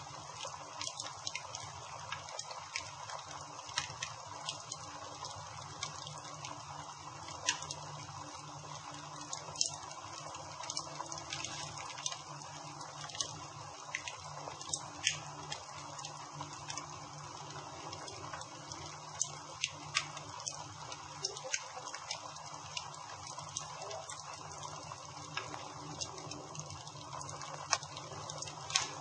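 Campfire crackling: irregular sharp pops and snaps, a few louder than the rest, over a steady hiss.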